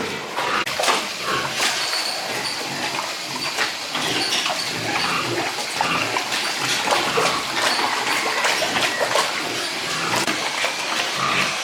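Pigs grunting amid splashing water, with many short knocks and splashes over a steady wash of noise.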